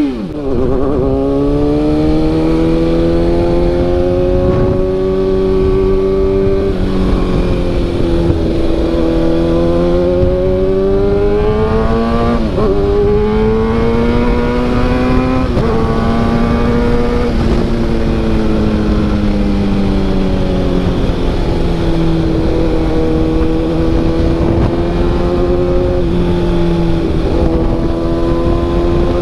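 Kawasaki ZX-6R's inline-four engine running on the move through an SC-Project CRT carbon-sleeve exhaust. Its note rises and falls gently with the throttle, with a couple of brief dips in pitch, as at gear changes, about halfway through.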